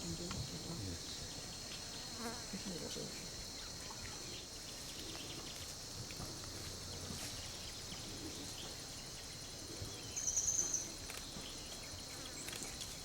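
Chorus of cicadas, a steady high-pitched buzz, with one louder, higher burst of buzzing about ten seconds in.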